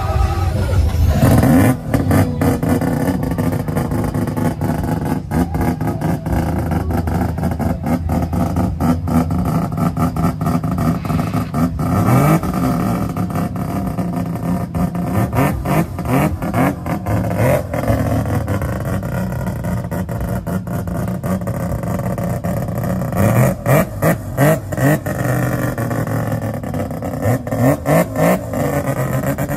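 Car engine revving repeatedly, its pitch rising again and again, with a rapid crackling popping from the exhaust throughout. Short sharp blips come in quick succession near the end.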